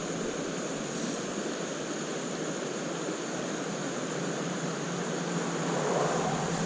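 Steady rush of creek water running over rocks in small rapids.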